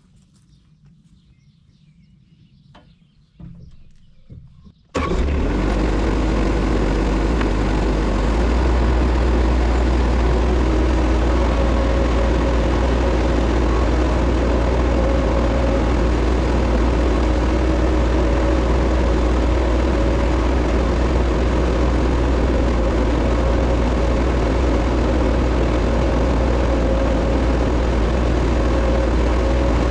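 Bobcat 773 skid steer's diesel engine comes in suddenly about five seconds in and then runs steadily with a deep, loud hum.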